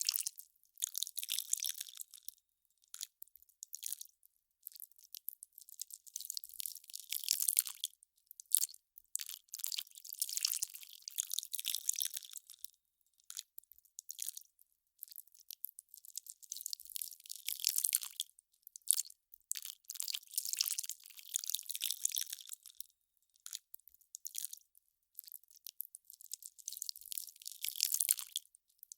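Ice crackling and popping as it melts: dense clusters of tiny crackles that swell and fade every second or two, thin and high with no low end.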